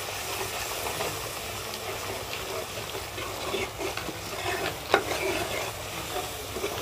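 Spiced masala frying and sizzling in a pot over a wood fire while a long-handled spoon stirs and scrapes through it. Small scraping clicks run throughout, with one sharp tap about five seconds in.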